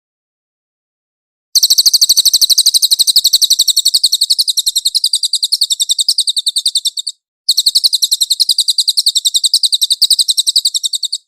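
Cililin songbird singing two long, rapid trills of evenly repeated high, thin notes, with a short break between them.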